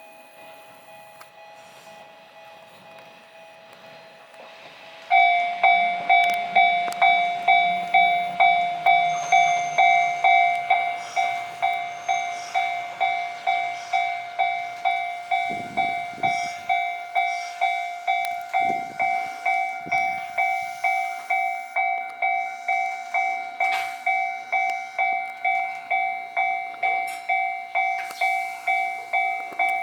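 A Japanese railway level-crossing alarm starts about five seconds in: a loud bell tone repeating about twice a second, sounding as the Fukui Railway 880-series tram comes through. Low rumbling and a few dull thumps from the tram sit under it.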